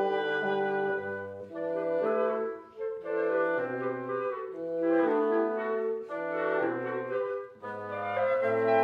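Wind quintet (flute, oboe, clarinet, French horn and bassoon) playing several sustained lines together in short phrases, with brief breaths between phrases.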